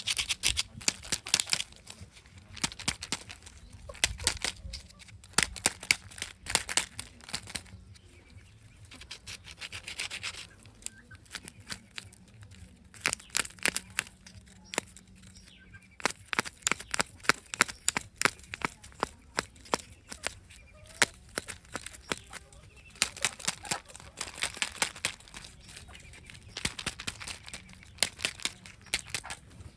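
Plastic packaging crinkling and clicking in the hands as surprise eggs and candy wrappers are unwrapped and opened. The rapid crackles come in spells of several seconds each, with quieter gaps between them.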